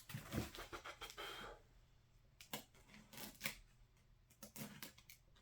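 Faint handling sounds: irregular scratching and rustling with a few light knocks, about a dozen short clicks spread through.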